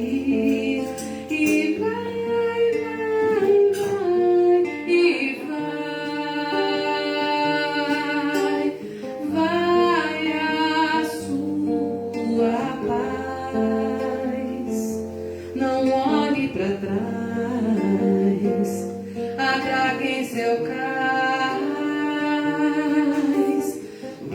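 A song performed live: a voice holding long, gliding notes over acoustic guitar accompaniment.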